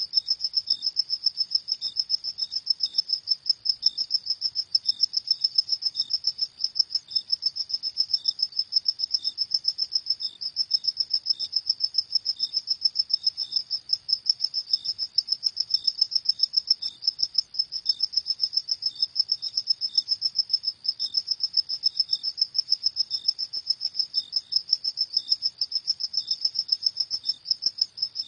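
Crickets chirping at night in a steady, rapid pulsing trill, with a second, lower chirp repeating about twice a second.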